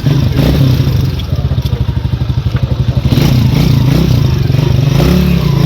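Small engine running steadily, with a fast even pulsing and its pitch shifting slightly up and down.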